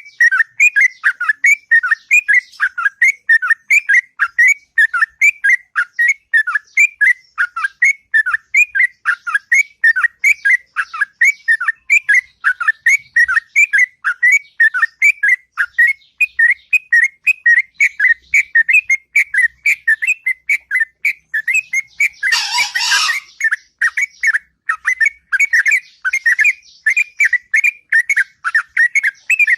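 Yellow-vented bulbul (trucuk) singing a long, unbroken run of rapid whistled notes, several a second. A brief harsh, noisy burst cuts across the song a little over two-thirds of the way through.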